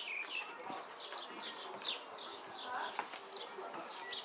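Garden birds chirping: a run of short, high, falling chirps repeating every fraction of a second.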